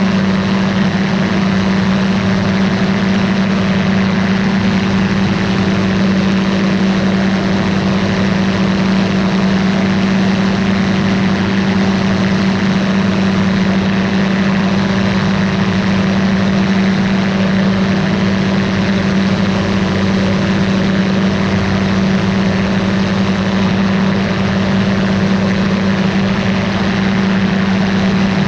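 Ultralight aircraft engine and propeller running at a steady power setting in flight, a constant drone with no change in pitch or loudness.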